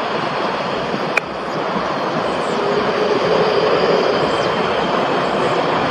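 Light aircraft's engine running and growing steadily louder, with a single sharp click about a second in.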